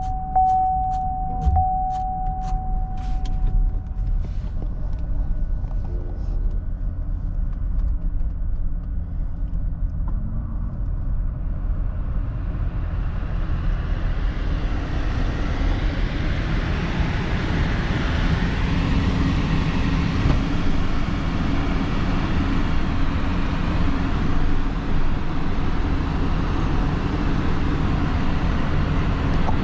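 Car on the move, heard from inside: a steady low engine and road rumble, with a quick regular ticking and a steady beep during the first few seconds, then tyre and wind noise building from about twelve seconds in as the car gathers speed.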